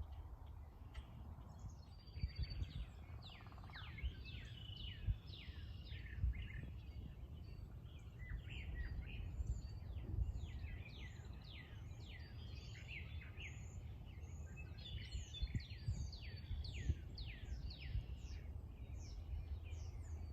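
Several songbirds calling together, a dense run of short, quickly falling high notes starting about two seconds in, over a steady low rumble.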